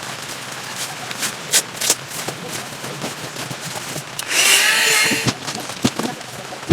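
Rain falling, with many sharp raindrop taps close by. About four seconds in, a louder noisy burst lasts about a second.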